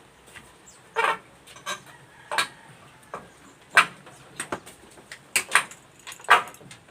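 Hammer blows driving nails into wooden framing: about nine sharp knocks at uneven intervals, some in quick pairs.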